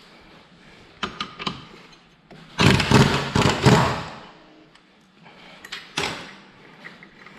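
Metal tools and parts knocking and rattling during work on a scooter's CVT transmission: a few sharp clicks, then a loud rattling burst lasting over a second, then another knock.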